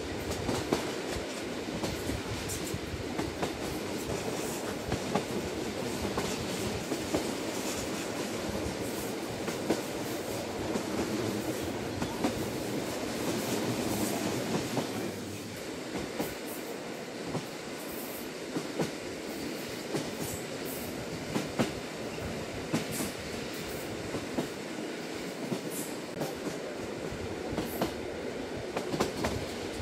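Lilac limited express train running at speed, heard from inside the passenger carriage: a steady rolling noise of wheels on rail with frequent small clicks and knocks, easing slightly about halfway through.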